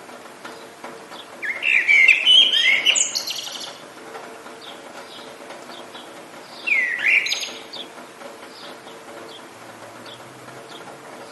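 Songbirds singing: a loud burst of warbled, gliding song about a second and a half in, another about six and a half seconds in, and small scattered chirps between them, over a steady hiss of light rain.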